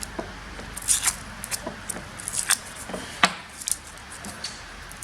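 Masking tape being peeled off the end of a brake hose: scattered short crackles and ticks as the tape is pulled and the hose end is handled.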